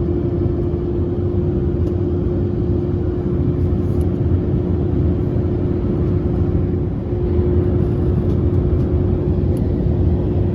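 Airbus A319-100 cabin noise during descent: a steady rumble of airflow and engines with a constant humming tone over it. That hum is the odd sound the passenger hears throughout the flight.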